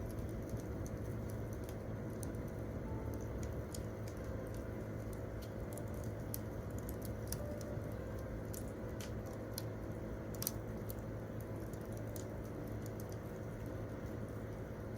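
Wood campfire crackling: irregular small snaps and ticks from the burning wood over a steady low hum, with one sharper pop about ten and a half seconds in.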